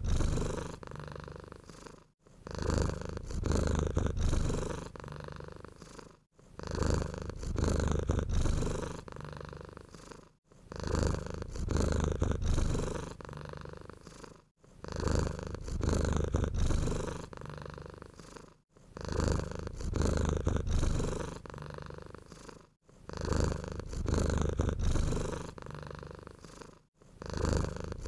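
Domestic cat purring: a low rumble that swells and fades in regular cycles about every four seconds, with a brief break between cycles.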